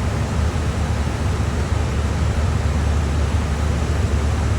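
Steady in-flight noise of an aircraft heard from inside: an even rushing with a heavy low rumble that does not change.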